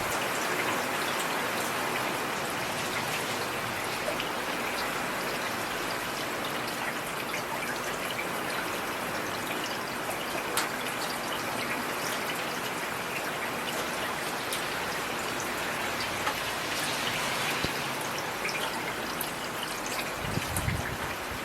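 Heavy rain falling steadily: a dense hiss dotted with sharp ticks of single drops. A low rumble comes in near the end.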